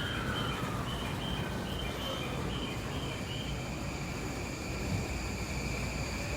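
Railway platform ambience: an electric train's motor whine falling in pitch over the first few seconds, with a run of short high chirps, then a steady high tone, over low rumble and wind noise.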